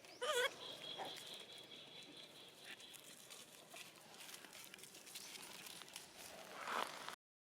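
A baby monkey gives one short, wavering high-pitched cry just after the start. A thin steady high tone follows for a couple of seconds, and there is a brief rustle near the end.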